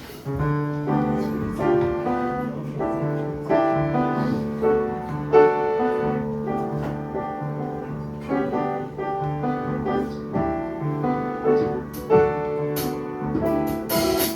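Solo piano playing a jazz introduction: chords and melody over held bass notes.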